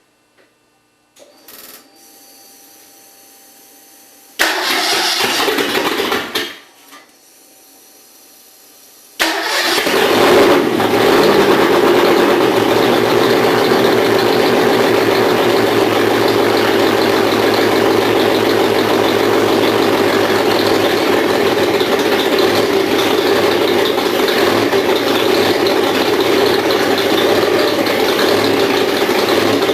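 First start of a new Ford 5.0L V8 crate engine: after a faint steady hum, the starter cranks for about two seconds without the engine catching, then cranks again briefly. About nine seconds in, the engine fires and keeps running steadily and loudly.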